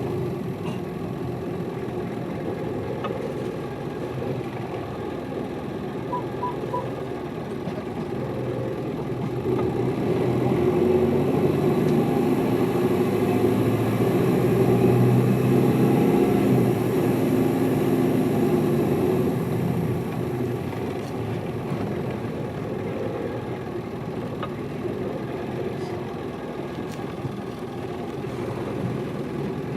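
Hino Liesse city bus's diesel engine running under way, heard from inside the passenger cabin. The engine grows louder and works harder about ten seconds in, then eases off after about twenty seconds. Three short high pips sound about six seconds in.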